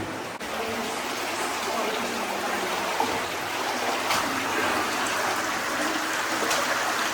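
Water running steadily, a stream flowing through the cave, with a few brief clicks over it.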